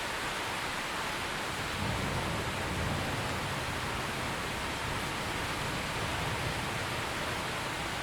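Steady heavy rain falling. About two seconds in, a low rumble of distant thunder rolls in under it and fades near the end.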